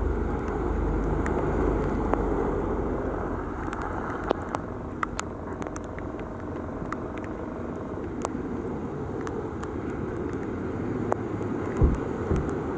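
Steady road noise of a car being driven, a deep rumble with a hiss, with scattered sharp ticks through it.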